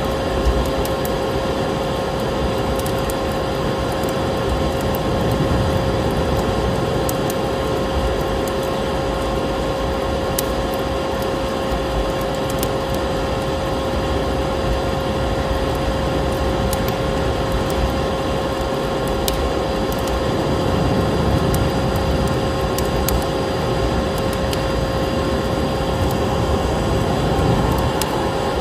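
Steady drone of a vacuum cleaner motor with a constant whine, mixed with the scattered crackle and pops of a burning wood fire.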